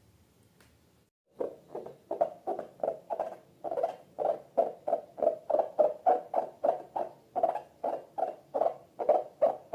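Slime being squished over and over in a steady rhythm, about three squishes a second, starting about a second and a half in.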